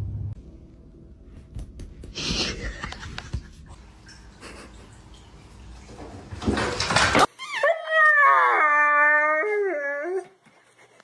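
A pet animal's long howl of about three seconds in the second half, its pitch wavering and dipping twice before it stops. It follows a few brief noisy bursts.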